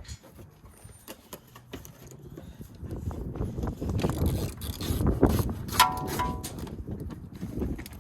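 Irregular clicks and knocks of hand tools on metal, growing busier and louder in the middle, with a brief squeak about six seconds in.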